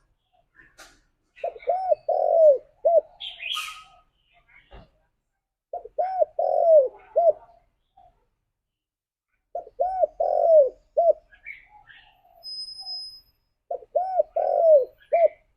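Spotted dove (tekukur) cooing its song: four phrases, each of about four arched coos, repeated every four seconds or so. Faint higher chirps come between the phrases.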